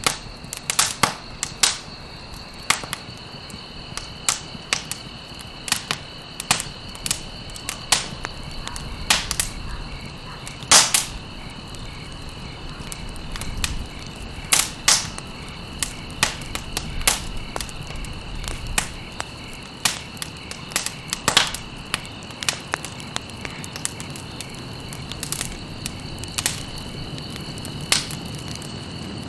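Campfire crackling, with irregular sharp pops of burning wood, a few of them louder, over a steady high-pitched trill.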